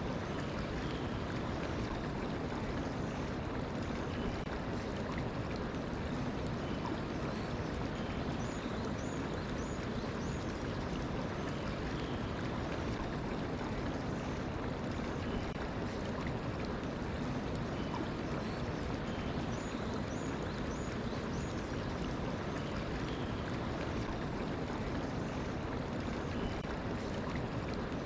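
Mountain stream flowing steadily, with birds chirping. Two short runs of high chirps come about ten seconds apart.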